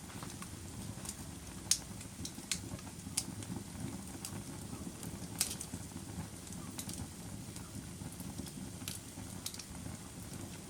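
Wood fire crackling in a fireplace: a steady low rush of burning with irregular sharp pops and snaps, the loudest a little under two seconds in and again just past five seconds.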